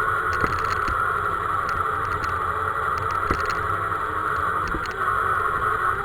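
Radio-controlled scale model vehicle running, a steady whine with a few light knocks.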